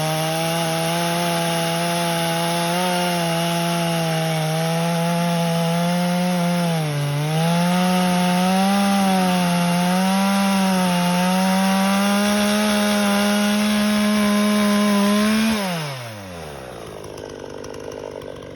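Two-stroke chainsaw running at full throttle through wood, its pitch dipping briefly under load about seven seconds in. Near the end the throttle is released and the engine revs fall away quickly.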